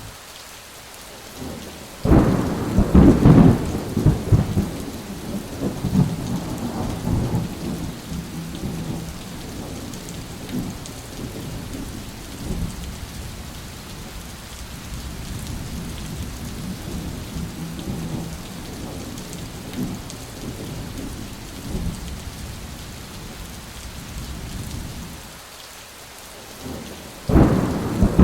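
Thunderstorm: steady rain falling, with a sudden loud thunderclap about two seconds in that rumbles away over several seconds, and another clap near the end.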